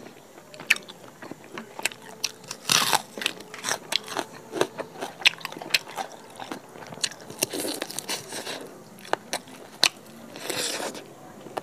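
A whole roasted chicken being pulled apart by hand and its meat bitten and chewed, close to a clip-on microphone: a run of small sharp clicks and crackles.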